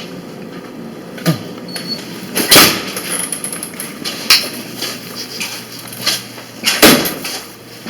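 A door being opened and shut, with several knocks and clunks, the loudest about two and a half seconds in and another near the end.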